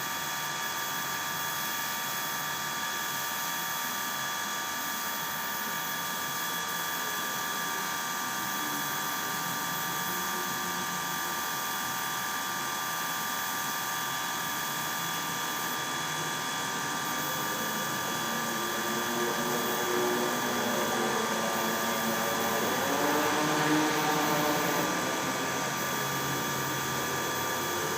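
A power tool running with a steady whine, getting louder with some rising and falling pitch in the last third.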